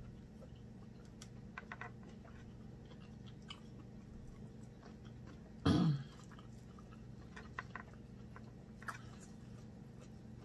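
A person eating a seafood boil with her fingers: faint chewing and small mouth clicks, with one short throaty vocal sound about six seconds in that falls in pitch. A low steady hum sits underneath.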